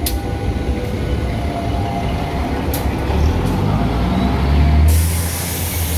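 KAI Kereta Istimewa train passing at close range: a steady rumble of its wheels on the rails, with two sharp clicks about three seconds in. A low engine drone swells as the louvered power car goes by, and a sudden loud hiss of rushing air starts near the end.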